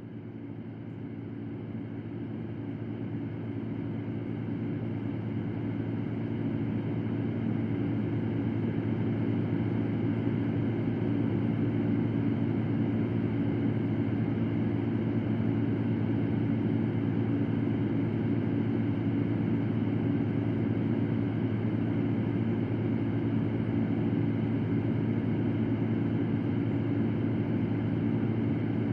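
Electric fan running steadily, a low hum under an even whoosh of moving air. It rises in level over the first several seconds, then holds steady.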